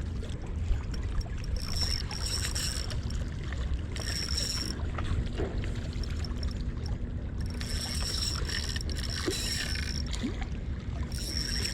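Fishing reel whirring in repeated short bursts, each with a thin high whine, as a hooked milkfish is played on the line. A steady low rumble of wind and water runs underneath.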